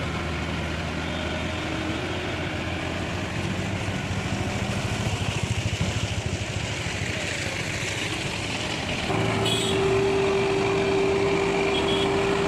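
Tractor diesel engine running steadily, then rougher for a few seconds. About nine seconds in it gets louder and a steady whine comes in and holds.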